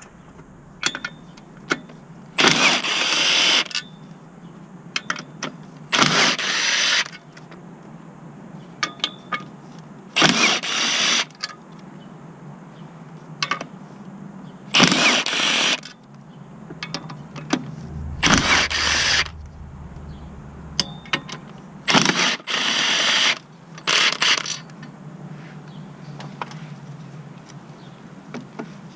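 Cordless power tool run in short bursts of about a second, seven times, spinning fasteners during a clutch job, with small metallic clicks of sockets and tools in between.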